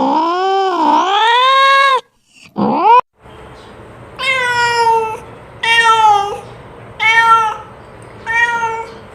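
A cat's long wavering yowl cuts off suddenly about two seconds in and is followed by a short rising cry. Then come four short meows, evenly spaced about a second and a half apart, each falling in pitch.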